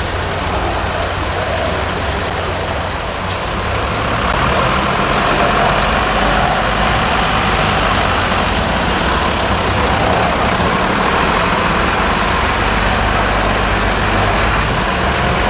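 Military diesel trucks driving past in a convoy: a steady engine rumble that grows louder about four seconds in. A short high hiss comes about twelve seconds in, typical of a truck's air brakes.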